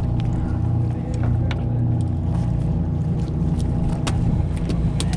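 A boat's motor running steadily at idle, with scattered small clicks and knocks over it.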